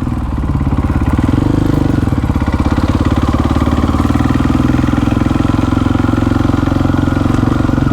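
Supermoto motorcycle engine running at a steady, even pitch, its firing pulses rapid and regular.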